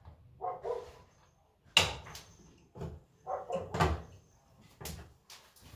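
A dog gives a few short barks, with sharp clacks and knocks in between; the loudest clack comes a little under two seconds in.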